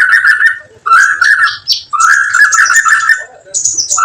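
A songbird giving rapid, crackling chatter calls ('kretekan') in repeated phrases of about a second each, with short gaps between, used to provoke other songbirds.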